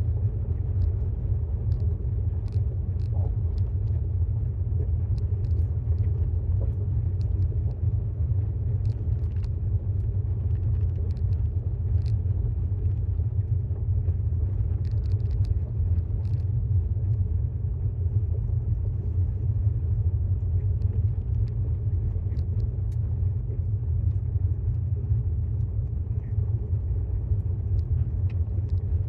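Steady low road rumble from the tyres of a 2018 Tesla Model S 75D driving at road speed, heard inside the cabin, with a few faint ticks and no engine sound.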